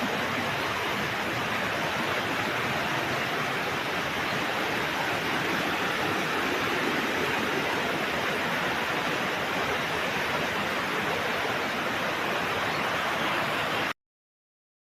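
Steady rushing water of a waterfall, cutting off suddenly near the end.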